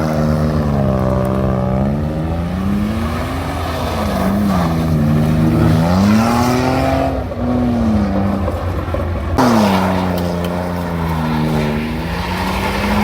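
Car engine revving hard, its pitch climbing and falling again and again as the car is driven in slides around a lot, over a steady rushing noise.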